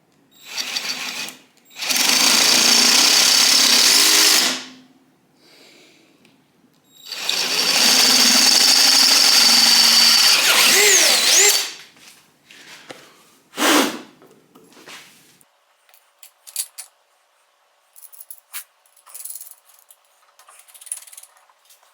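Electric power drill running in three bursts, the longest about four seconds, with a steady high whine over a harsh grinding rattle, as if boring into sheet metal. It is followed by a sharp knock and scattered small clicks of handling parts.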